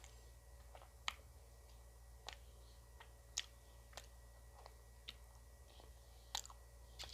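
Close-up mouth sounds of someone eating ice cream: quiet chewing with sharp little clicks and crunches about once a second.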